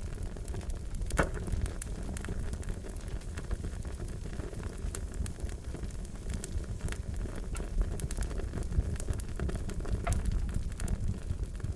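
Fire crackling: a steady low rumble of flames with scattered sharp pops, the strongest about a second in.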